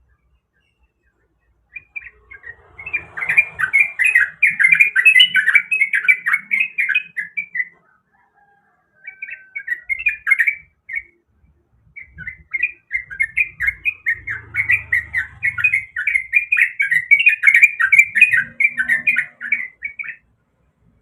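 Yellow-vented bulbul singing in three bursts of fast, bubbling chattering notes. The first burst runs about six seconds, the second is short, and the third runs about eight seconds.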